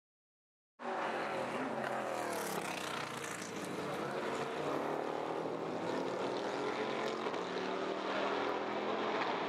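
Performance car engine running hard, its pitch shifting gradually up and down. It starts about a second in after a brief gap of silence.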